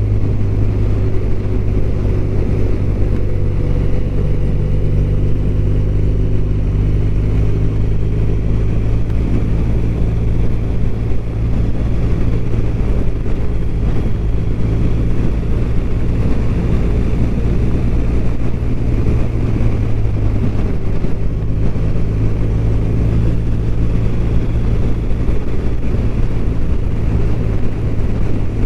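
BMW R1200RT boxer-twin engine running with a steady low drone, the motorcycle cruising at an even speed.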